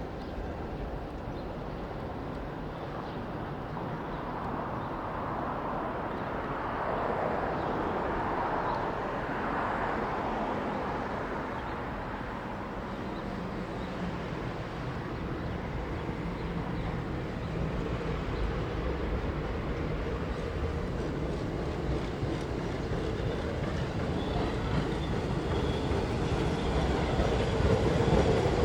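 Staten Island Railway train running on the line, with wheels clacking over the rails; the sound grows steadily louder toward the end as the train comes closer.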